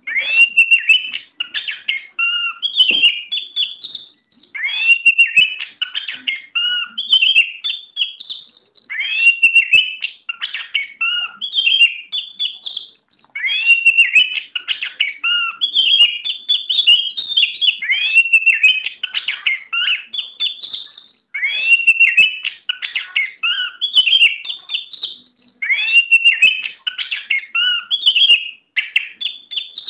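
Oriental magpie-robin (kacer) singing loud, fast-changing phrases of whistles and chatter, in bouts of about four seconds broken by short pauses.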